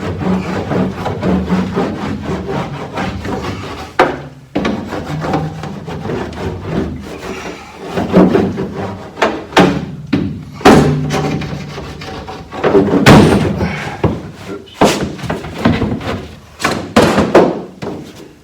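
Sound-deadening sheets being rubbed and pressed onto the bare sheet-metal of a pickup cab, a steady scraping rub broken by several sharp knocks against the panels.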